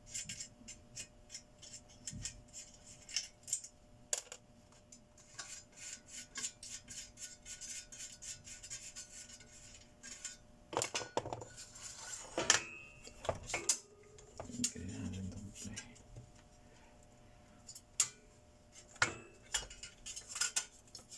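Metal parts and hand tools clicking and clinking as the case and internals of a Telwin inverter welding machine are handled during disassembly. Rapid light clicks throughout, with several louder knocks about halfway through and again near the end.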